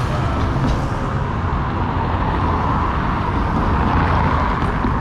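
Steady road traffic noise: motor vehicles running past on a busy street.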